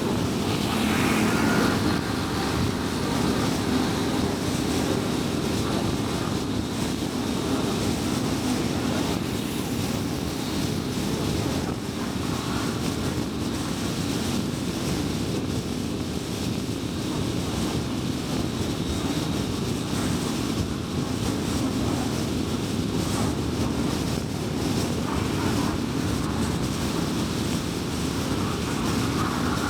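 A car driving steadily at highway speed: continuous tyre and road noise mixed with engine hum and wind, with a brief swell about a second or two in.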